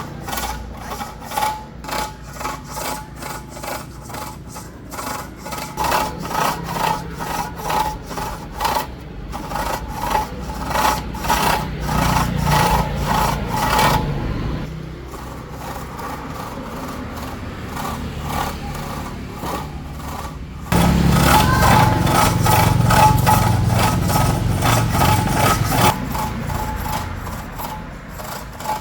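Quick, repeated rasping scrapes of a hand tool, a few strokes a second, with a lull in the middle and a louder run after about 21 seconds.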